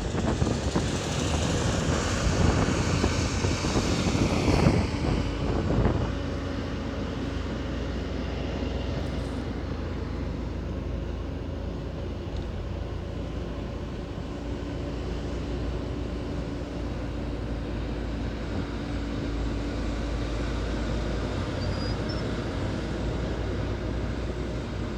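Engine and road noise of a car heard from inside the cabin while driving. It is a steady low hum, with a louder rush of noise in the first five seconds that then settles.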